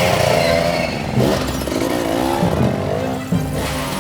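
Cartoon engine sound effects of several racing vehicles revving and speeding off, the engine notes rising and falling in pitch.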